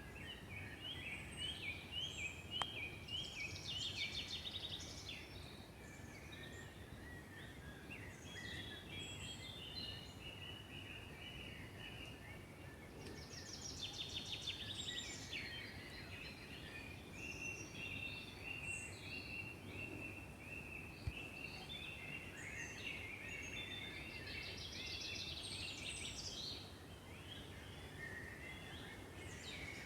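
Several birds singing and calling at once in a forest, with a repeated chirp series, rapid trills and varied short phrases layered over a soft steady background hiss.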